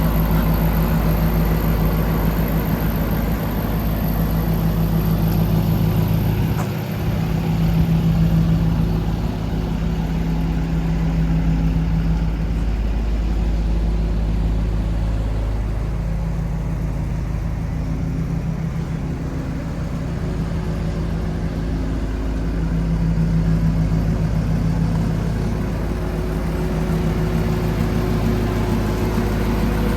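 Diesel engine idling steadily, a low even drone that swells and eases slightly now and then.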